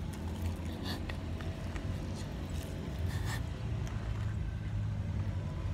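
A person chewing a mouthful of fried chicken tender close to the microphone, with scattered small mouth clicks and a few brief breathy noises, over a steady low rumble.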